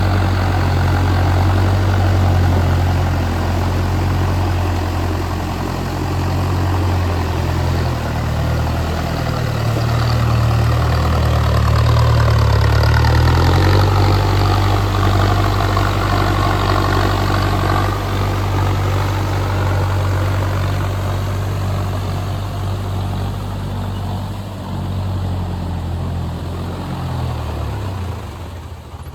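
Mahindra Arjun Novo tractor's diesel engine running steadily, its low drone stepping slightly up and down in pitch as the revs change.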